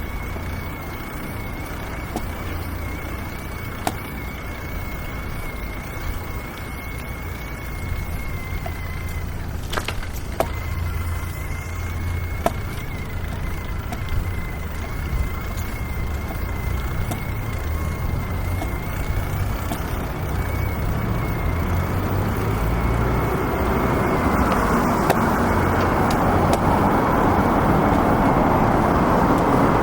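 City street traffic: a steady rumble of passing cars and other road vehicles, with the traffic noise swelling louder over the last several seconds as vehicles draw near. A few sharp clicks sound around the middle.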